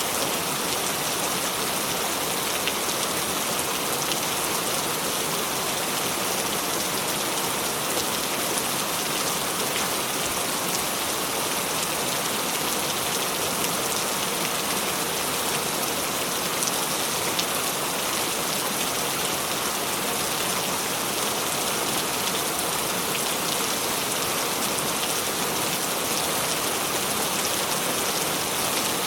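Steady rain: an even, unbroken hiss of many drops falling, with no thunder.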